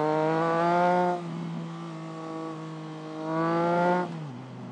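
Triumph Trident 660's three-cylinder engine accelerating under the rider, its note climbing in pitch and dropping off about a second in, running steadily, then climbing again and falling away near the end as the throttle is eased.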